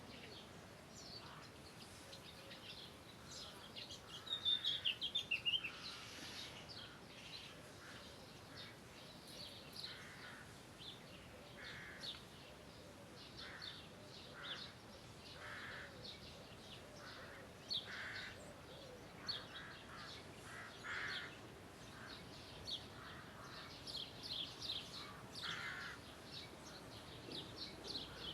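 Wild birds calling: many short high chirps, a fast trill that falls in pitch about four seconds in, and a lower, harsher call repeated every second or two over faint outdoor background noise.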